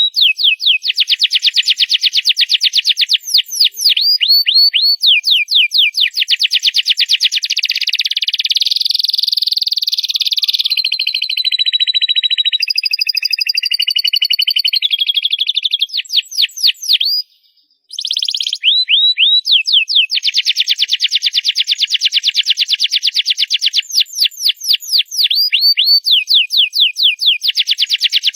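Canary singing loudly: long runs of very fast trills and rapid series of falling whistled notes, changing from one phrase to the next, with a short break a little past halfway.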